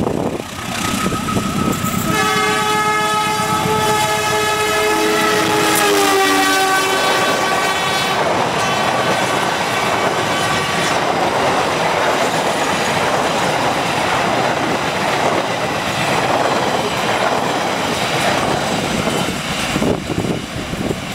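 A CC201 diesel locomotive hauling a passenger train sounds a long multi-note horn whose pitch drops about six seconds in as it passes. The carriages then rumble and clatter by on the rails, easing off near the end.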